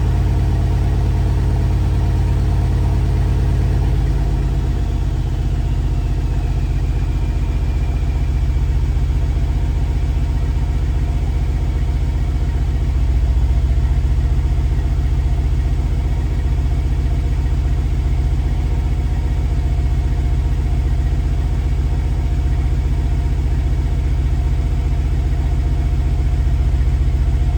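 Mercedes-Benz SL550's twin-turbo V8 idling steadily after a cold start; its idle drops to a lower, settled pitch about four to five seconds in as the fast cold idle comes down.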